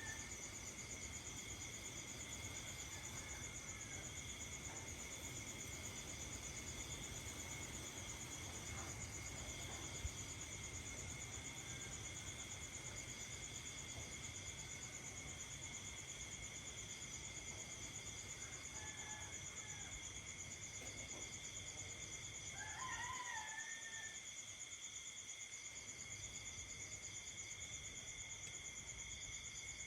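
Night insects, crickets among them, chirring steadily in several overlapping high-pitched pulsing trills. A short warbling animal call stands out about two-thirds of the way through, with a fainter one shortly before it, and there is a single sharp click about a third of the way in.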